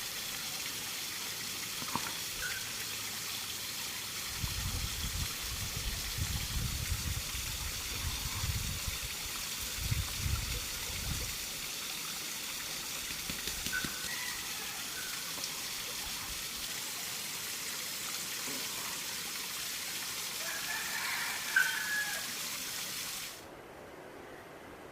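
Steady rush of running water, with a low rumble for several seconds in the first half and a few faint high chirps later. The rush cuts off suddenly near the end.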